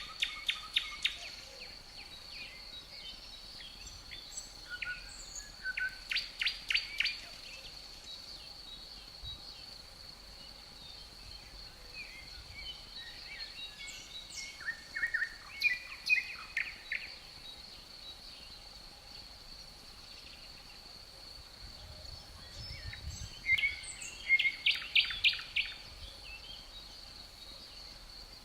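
A songbird singing short phrases of quick notes, four times, about every eight to nine seconds, over the steady high-pitched trill of crickets.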